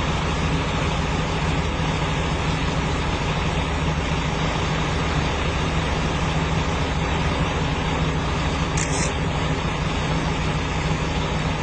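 A motor vehicle's engine running steadily, a constant low hum under an even hiss, with a brief high-pitched tick about nine seconds in.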